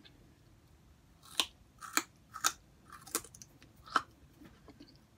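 Crisp crunching as raw vegetable sticks are bitten and chewed close to the microphone. There are about five sharp crunches, roughly half a second to a second apart.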